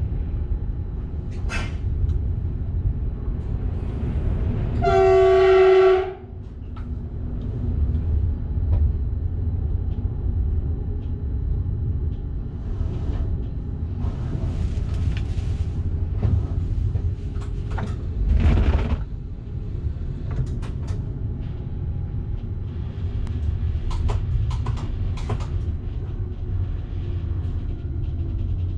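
Train running with a steady low rumble and scattered clicks, heard from the driver's cab. About five seconds in, the train horn sounds one blast of about a second, the loudest sound. A brief rushing burst comes near the two-thirds mark.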